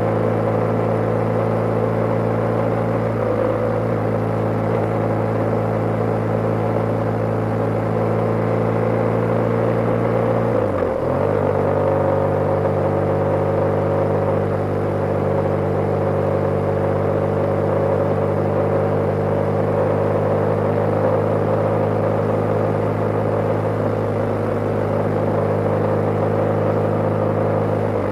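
BMW G/S motorcycle engine running steadily while riding, with a brief dip and change in engine note about ten seconds in and another near the end.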